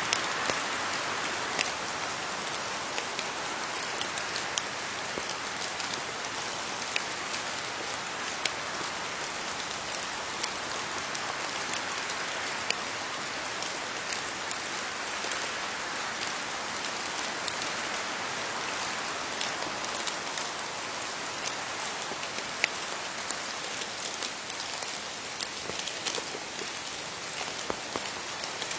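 Steady rain falling on leaves, a continuous patter with scattered sharper drops hitting close by.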